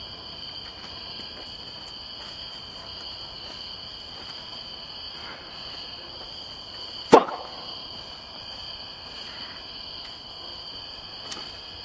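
Steady high chorus of insects, with two even high tones held throughout. A single sharp knock about seven seconds in is the loudest sound.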